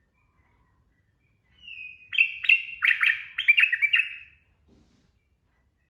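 Sooty-headed bulbul (trucukan) singing one quick, bubbly phrase of rapid notes, starting about a second and a half in and lasting about three seconds.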